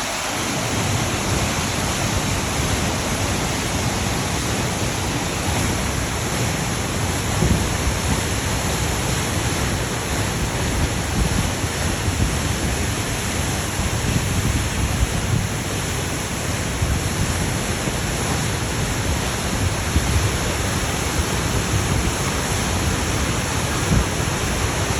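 Waterfall: a steady, even rush of falling water, with an uneven low rumble underneath.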